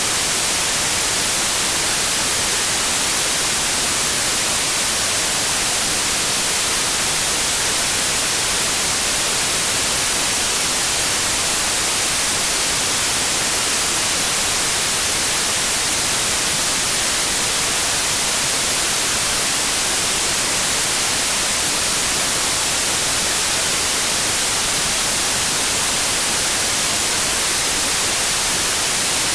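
Steady, unbroken white noise: an even hiss, strongest in the high pitches.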